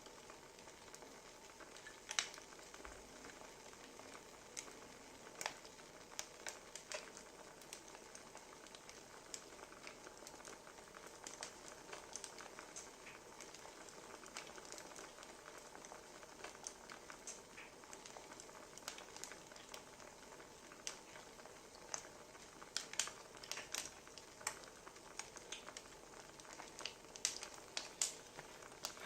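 Wood fire crackling faintly: a soft steady hiss with irregular sharp pops and snaps, a quick flurry of them near the end.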